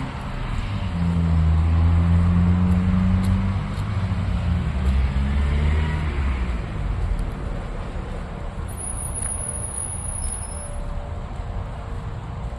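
A vehicle engine running with a low, steady hum that fades away after about six or seven seconds, leaving a steady rushing background.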